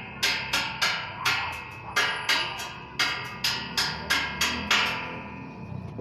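Hammer striking metal repeatedly, about three ringing blows a second. The blows stop shortly before the end and the metal's ring fades away.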